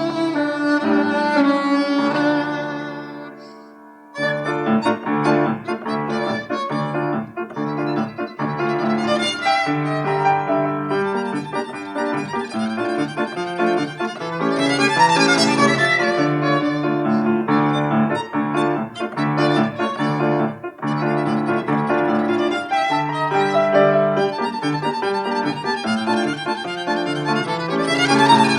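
Violin playing with piano accompaniment. A held passage dies away, then about four seconds in a quick, lively passage starts up over steady, pulsing low piano notes.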